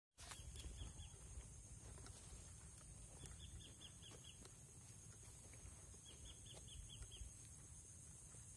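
Faint outdoor ambience: a bird calling in three short runs of quick, evenly spaced chirps over a steady high-pitched drone, with low wind rumble underneath.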